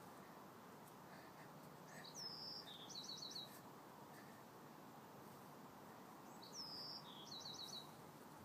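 A small songbird sings the same short phrase twice, about four seconds apart. Each phrase is a high falling note followed by a quick run of four short notes, faint over a steady background hiss.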